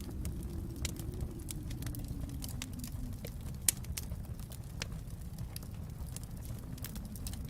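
Wood fire crackling in a fireplace: scattered sharp pops and snaps over a steady low rumble, with one louder pop a little past halfway.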